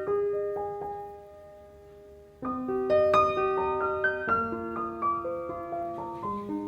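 Background piano music: a held note fades away, then a run of notes starts about two and a half seconds in.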